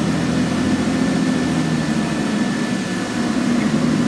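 Scania N113CRB bus's diesel engine running steadily with a low, even drone.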